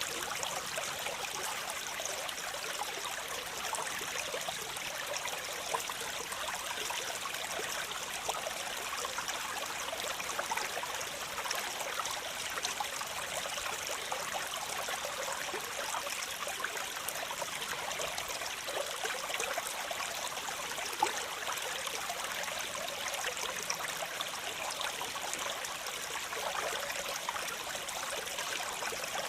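Waterfall: water running and splashing steadily, a constant hiss with little deep rumble.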